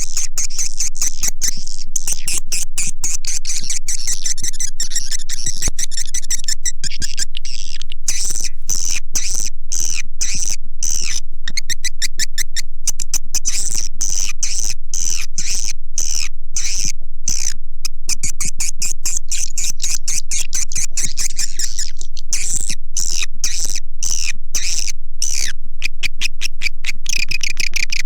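Recorded swiftlet call sound: a rapid, continuous chittering and clicking of many swiftlets, played loud and steady as a lure to draw swiftlets into a nesting house. A faint steady low hum runs underneath.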